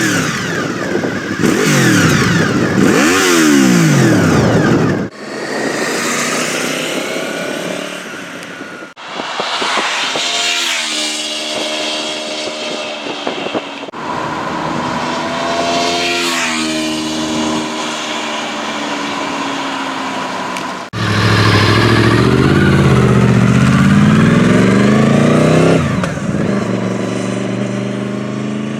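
Honda VFR800 RC46's V4 engine heard through its exhaust, revved up and down again and again in several short clips cut one after another. The revs rise and fall in steep sweeps, loudest in the first few seconds and again in a long rising run past the middle.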